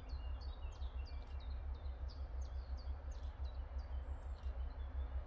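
Birds singing in quick runs of short, falling chirps over a low, fluttering rumble of wind on the microphone.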